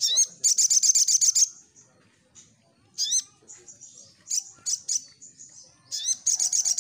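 Crimson sunbird (sogon) singing: bursts of rapid, high, sharp chattering notes, about ten a second, mixed with single quick upslurred notes, in several bouts with short gaps between.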